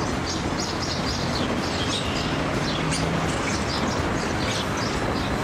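Small birds chirping over and over in the trees, many short quick chirps, over a steady low rumbling noise.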